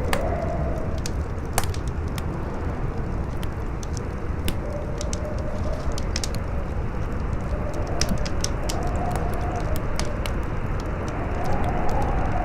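Campfire crackling, with irregular sharp pops and snaps over a steady rush of strong wind. A faint howling tone in the wind wavers in pitch and swells near the end.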